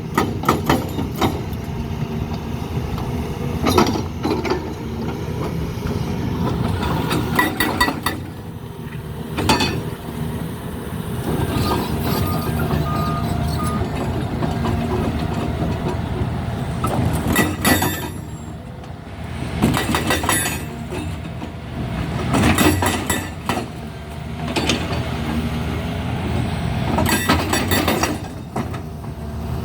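Heavy diesel machinery running steadily, with repeated sharp metallic clanks and bangs.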